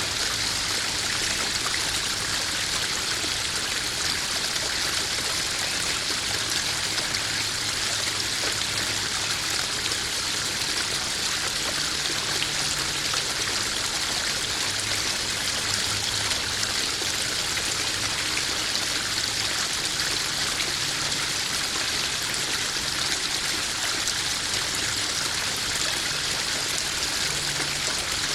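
Small garden waterfall spilling into a koi pond: steady splashing and trickling running water.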